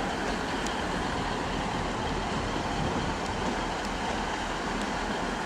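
Train running at a station platform, a steady even noise with no distinct clicks or beats.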